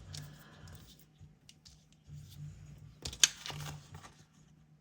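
Paper stickers being handled: rustling and peeling as a sticker comes off its backing and is pressed onto the planner page, with a sharp tap a little after three seconds in.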